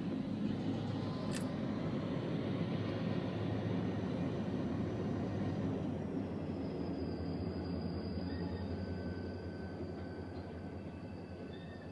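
Empty coal train rolling past on the rails, a steady rumble that eases slightly over the last few seconds.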